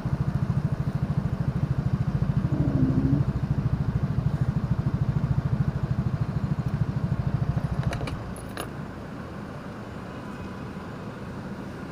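Vehicle engine idling with a fast, regular pulse, then dropping to a quieter, smoother sound about eight seconds in.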